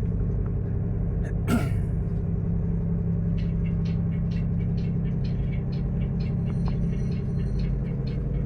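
Large marine diesel engine running at a steady drone, with a short sharp noise about a second and a half in and faint irregular ticking over the second half.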